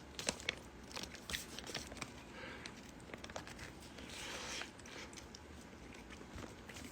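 A person chewing a squid snack close to the microphone: scattered small clicks and crunches, with a soft rustling noise a little past the middle.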